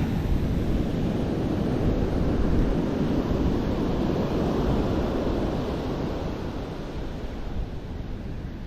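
Ocean surf washing on the beach, mixed with wind buffeting the microphone; the wash is strongest through the middle and eases off over the last few seconds.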